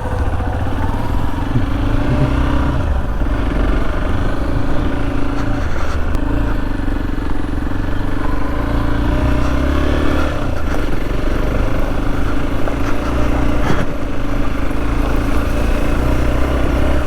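Motorcycle engine running steadily while riding, its note dipping briefly a few times.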